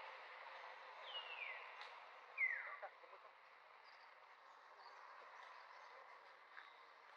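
Two high, falling cries from a baby monkey, about a second apart, the second the louder, over a faint steady background hiss.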